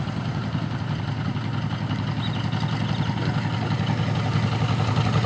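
Vintage farm tractor engine running at low speed, a steady rapid exhaust pulse that grows slightly louder.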